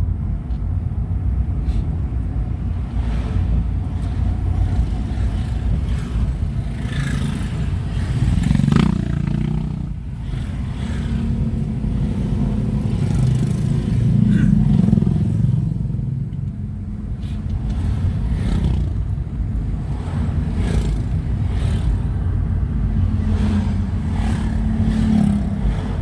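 A motor vehicle's engine running on the road, with a heavy low rumble; the engine note rises and falls several times as it speeds up and slows.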